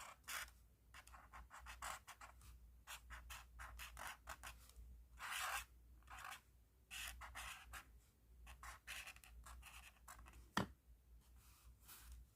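A pen tip scratching across paper in quick, irregular strokes of writing or colouring, with one sharp tap near the end.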